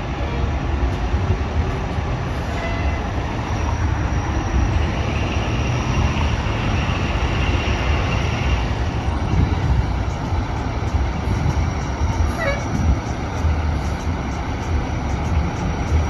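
Steady low rumble of a heavy vehicle, with a faint short whine about twelve seconds in.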